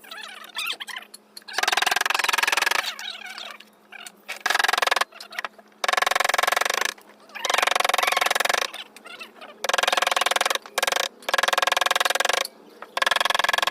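A woodworking tool cutting into shisham wood in about eight short bursts, each around a second long, starting and stopping sharply with the same steady pitch every time.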